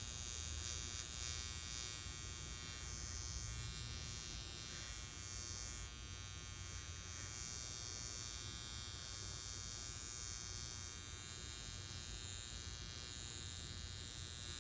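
High-frequency facial machine's wand buzzing steadily as it is worked over the face, a constant electric buzz with a bright high hiss over a low hum.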